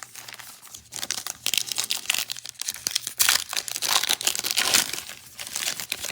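Trading card pack wrapper being torn open and crinkled by hand: an irregular run of crackling and rustling that starts about a second in.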